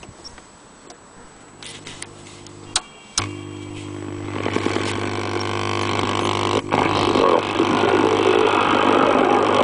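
Vintage valve radio switched on with a sharp click about three seconds in, followed by a steady low mains hum. Hiss and sound then swell gradually over several seconds as the valves warm up.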